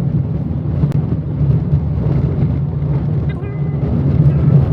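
Steady low rumble of a car driving on a snowy winter road, heard from inside the cabin by a dashcam: tyre and engine noise. A brief faint tone sounds about three seconds in.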